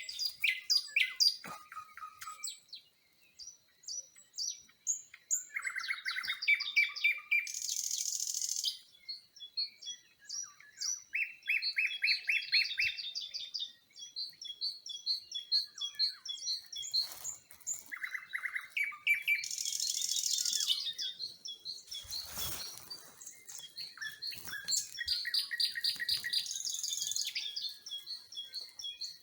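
Songbirds singing: repeated phrases of quick chirps, rapid trills and high buzzy notes, with short pauses between phrases. A brief burst of noise comes about two-thirds of the way through.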